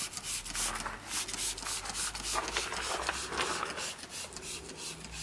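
Cold degreaser being sprayed onto an engine bay in many short, irregular hissing bursts.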